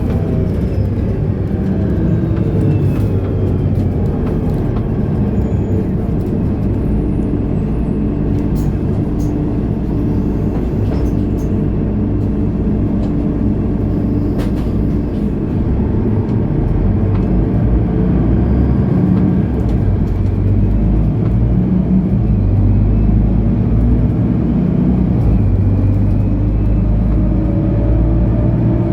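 Mercedes-Benz O530 Citaro city bus under way: its diesel engine and driveline running steadily with scattered light rattles. A whine falls in pitch at the start, and near the end rising whines mark the bus pulling harder and gaining speed.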